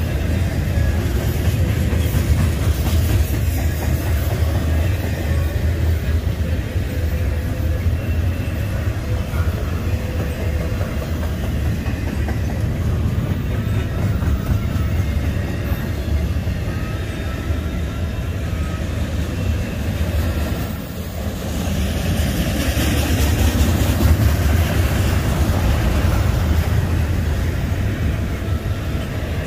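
Double-stack intermodal train rolling past: the steady rumble and rattle of its well cars' wheels on the rails, swelling louder about two-thirds of the way through.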